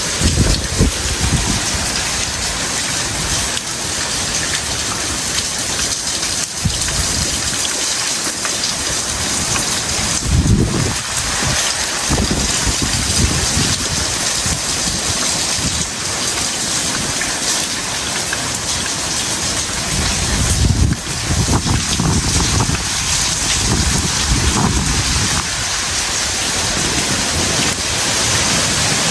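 Heavy tropical rain pouring down steadily, with low surges of wind a couple of times, about ten seconds in and again about twenty seconds in.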